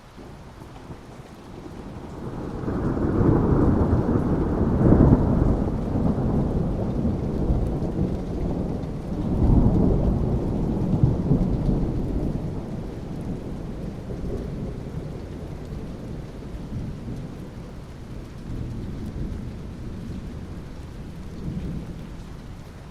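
Rolling thunder over steady rain. A low rumble builds about two seconds in, swells twice, then slowly dies away while the rain continues.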